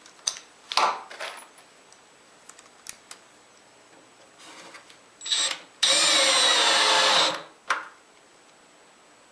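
A power drill driving a screw into plywood: one steady run of about a second and a half, with the motor pitch drifting slightly as the screw goes in. A few short knocks and clicks of handling come before it.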